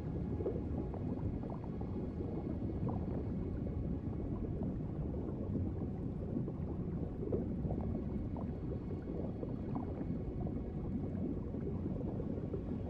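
Steady low bubbling and gurgling of water: an underwater ocean ambience.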